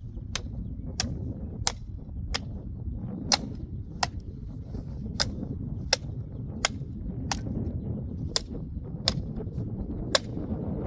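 About fifteen sharp knocks in a steady rhythm, roughly three every two seconds, over a steady low rumble.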